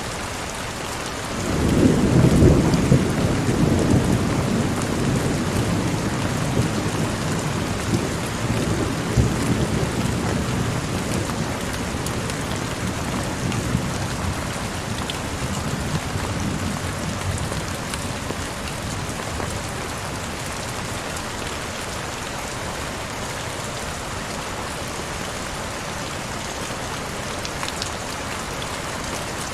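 Heavy rain falling steadily, with a long roll of thunder that breaks about a second and a half in and rumbles away over the next fifteen seconds or so.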